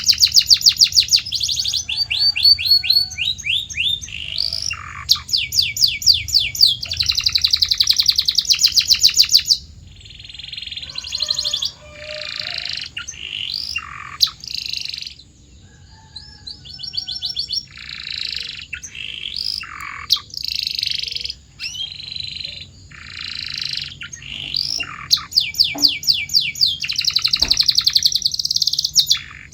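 Domestic canary singing: phrases of rapid trills, each a fast run of repeated high notes, changing from one kind of trill to the next with short pauses between.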